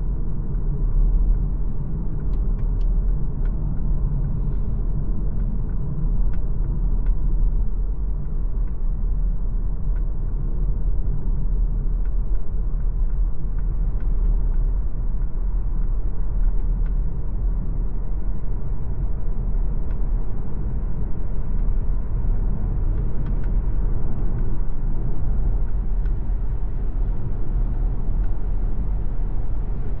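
MG ZS Hybrid+ driving: a steady, low rumble of road and tyre noise, with now and then a faint tick.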